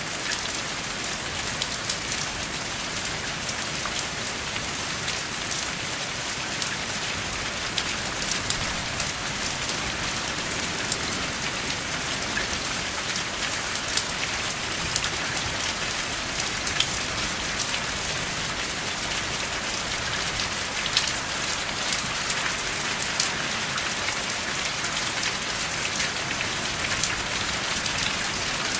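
Steady rainfall, an even hiss with many individual drops landing close by as short sharp ticks.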